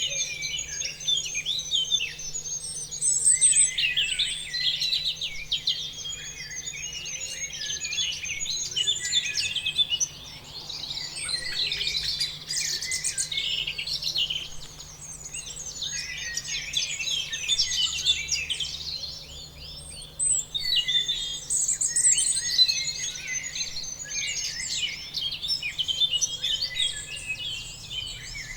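Many small birds chirping and singing at once, a dense chorus of overlapping high chirps and trills with no pauses.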